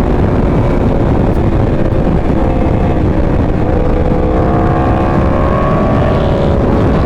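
Sportbike engine running at speed under heavy wind rush, its pitch climbing steadily from about halfway through as the bike accelerates.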